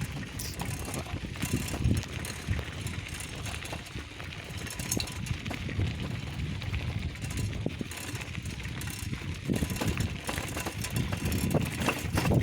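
Bicycle being ridden: steady rolling noise from the tyres, with scattered rattles and knocks.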